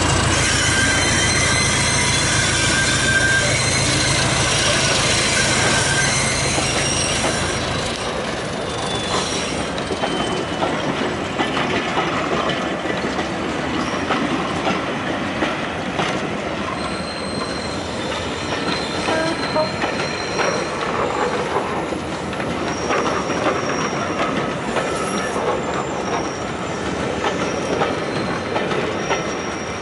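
A diesel locomotive's engine runs loud as it draws a train past, dropping away after about seven or eight seconds. Then the coaches roll by with a rhythmic clatter over the rail joints and short high squeals from the wheels.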